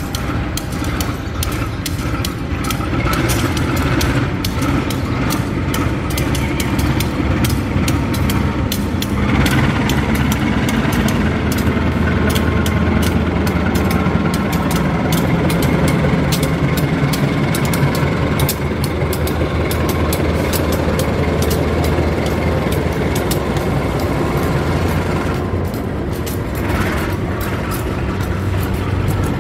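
Diesel-electric locomotive running slowly as it hauls passenger coaches past, its engine drone growing louder in the middle as it comes close, with many sharp clicks and clatter from the wheels on the track.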